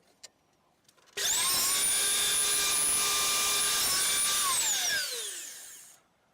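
Electric motor switched on about a second in, its high whine rising quickly to speed, running steadily for about three seconds, then switched off and winding down with a falling whine.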